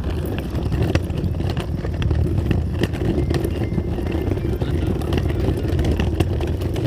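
Small wheels rolling over rough pavement: a steady low rumble with many scattered clicks and knocks.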